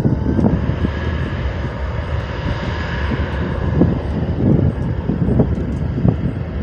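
Airplane engines passing, the noise swelling to a peak around the middle and then easing, under heavy wind buffeting the microphone.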